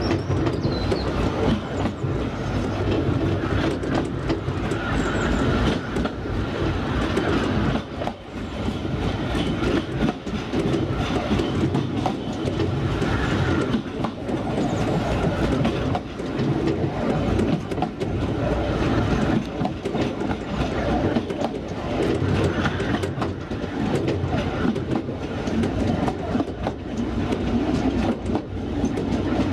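2 ft narrow-gauge train running along the track, its wheels clicking over the rail joints over a steady rumble.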